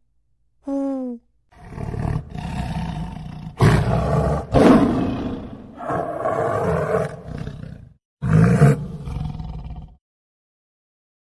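A large animal's loud, rough roaring calls, one after another, preceded by a short pitched call about a second in.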